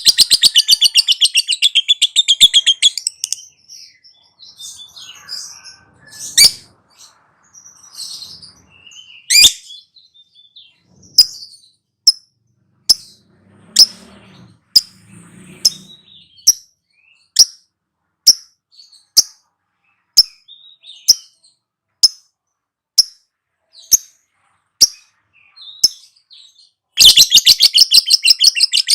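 Lovebird ngekek: a fast, rattling high chatter that breaks off about three seconds in. Single sharp chirps follow, about one a second, until the fast chatter starts again near the end.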